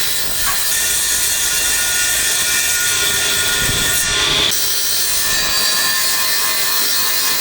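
A power tool running steadily while working wood.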